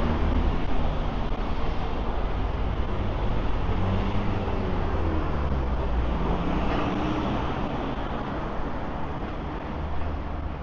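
City road traffic: a steady rumble of passing motor vehicles, their engines and tyres.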